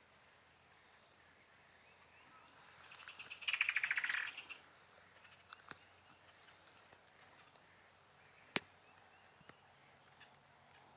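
Steady, high-pitched insect chorus. About three and a half seconds in comes a brief, loud burst of rapid rattling, and a single sharp click follows later.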